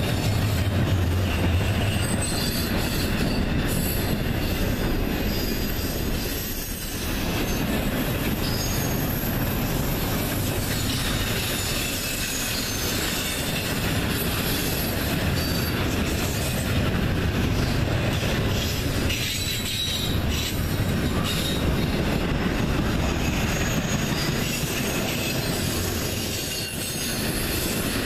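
Double-stack intermodal freight train rolling past at close range: a steady noise of steel wheels on rail and well cars rattling, dipping briefly three times.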